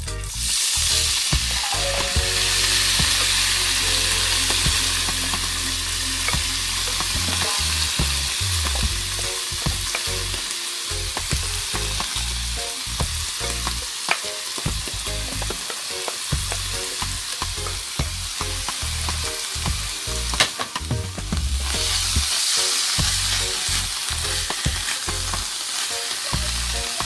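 Flaked tuna sizzling as it is tipped into hot oil in a nonstick frying pan, then stirred with a wooden spoon: a steady frying hiss with scattered clicks and scrapes of the spoon against the pan.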